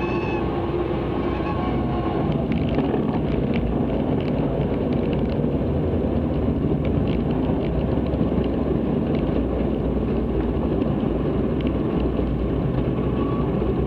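Cessna 162 Skycatcher's Continental O-200 four-cylinder engine and propeller running steadily in flight, a constant drone inside the cockpit.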